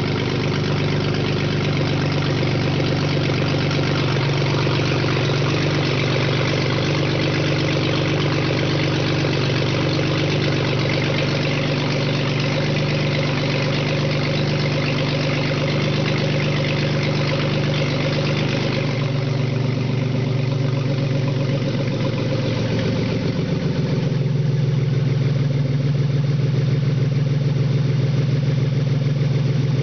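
BMW 328i's 2.8-litre straight-six engine (M52) running at a steady idle on test. The sound shifts a little about two-thirds of the way through, then carries on slightly louder.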